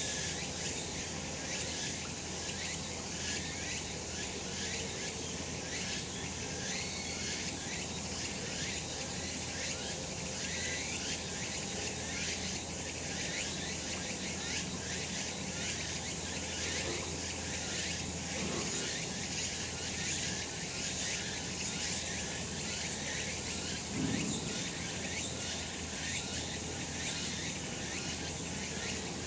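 A chorus of cicadas singing steadily, a dense, high-pitched pulsing drone.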